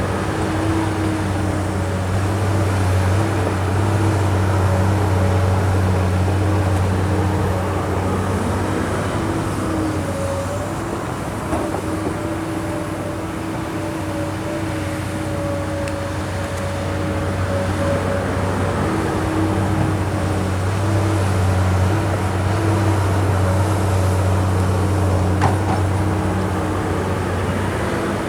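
Kobelco SK200 hydraulic excavator's diesel engine running while it digs: a steady low drone with a whine held above it, swelling and easing as the machine works. A faint knock comes once or twice.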